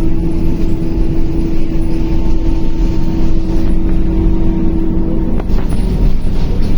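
Cabin sound aboard a Scania K280UB city bus under way: the rear-mounted diesel engine's steady drone, with a constant hum over a low rumble. A single click comes about five seconds in.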